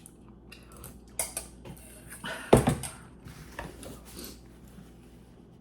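Eating utensils clicking and scraping against dishes as a meal is eaten, irregular light knocks with one sharper knock about two and a half seconds in.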